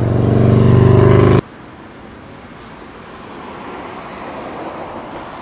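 A motor vehicle engine revving, its pitch rising slightly, cut off abruptly about a second and a half in; after that a quieter steady rumble of road noise.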